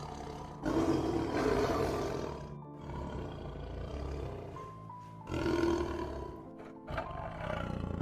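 Background music with a large animal's loud, rough calls over it, three times: a long one about a second in, a shorter one near six seconds, and another near the end.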